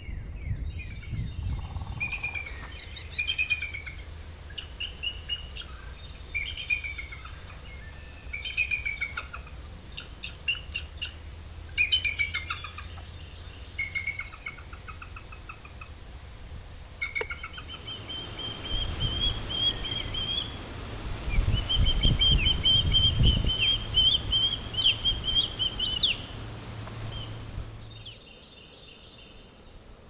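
Assorted birds chirping and calling in short, varied phrases. Then comes a long series of rapid, high whistled chirps at an even pitch, typical of an osprey calling at its nest, over a low rumble.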